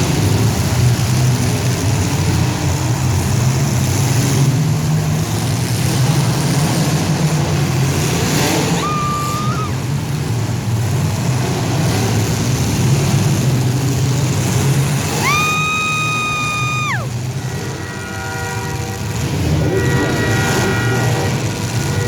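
Demolition-derby compact cars' engines running steadily, with horn blasts over them: a short one about nine seconds in, a longer one about fifteen seconds in that drops in pitch as it cuts off, and several horns sounding together near the end.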